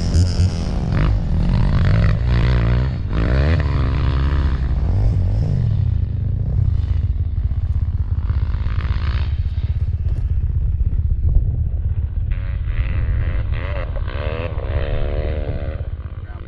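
Dirt bike engine running hard, the throttle opening and closing so the pitch rises and falls several times.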